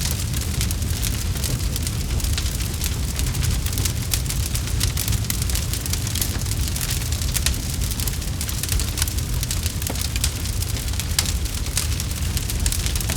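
Campfire crackling: a dense, irregular run of small pops and snaps over a steady low rumble.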